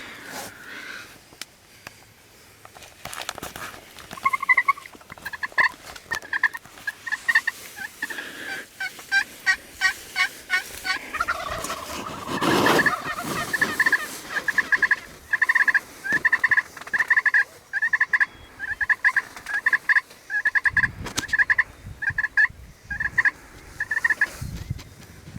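Wild turkeys calling: a long run of short, evenly repeated yelps, with one loud gobble about twelve seconds in.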